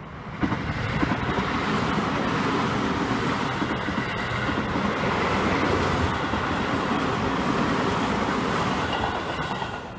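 Seibu 20000 series electric commuter train running past close by, a steady rumble of wheels on rail that starts abruptly about half a second in and drops away near the end.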